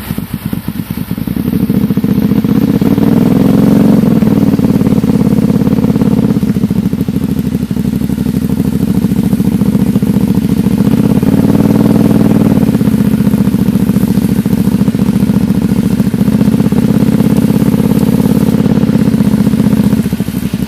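Engine running steadily at close range. It grows louder about a second and a half in, and its pitch swells and eases off twice.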